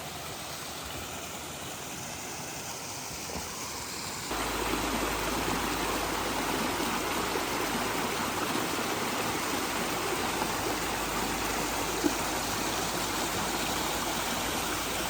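Steady rush of a river running high and fast after heavy rain, getting louder and deeper about four seconds in.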